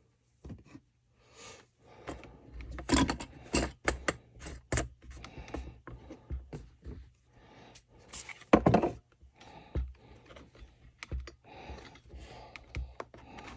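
Irregular clicks, taps and knocks of a Stihl FS 45 string trimmer's parts and hand tools being handled during reassembly, with a few louder knocks, the loudest about nine seconds in.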